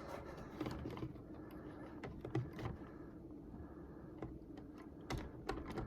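Faint scattered clicks and taps of plastic HO-scale model train cars being handled and fitted onto the track.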